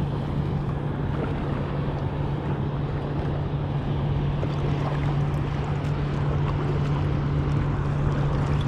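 Boat engine running with a steady low hum, over wind buffeting the microphone and water noise.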